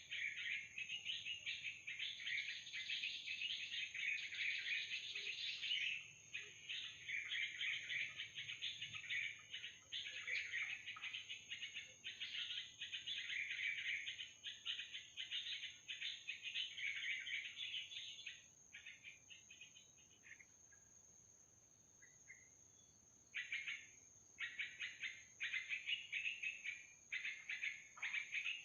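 Small birds chirping in a busy, continuous chatter, dropping to a lull about two-thirds of the way through before starting up again near the end.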